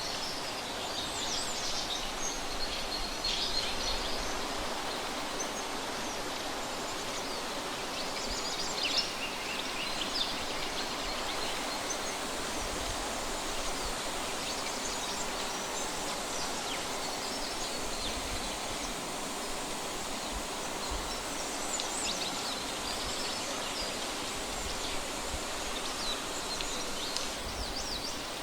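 Steady rushing outdoor noise with short, high bird calls every few seconds.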